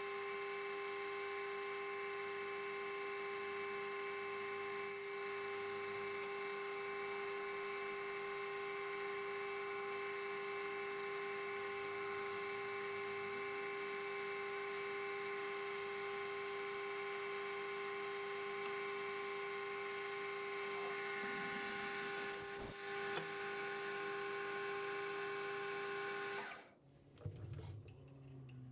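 Metal lathe running steadily with a constant whine during a final boring pass inside a steel sleeve. It shuts off about two seconds before the end, and a few light clicks follow.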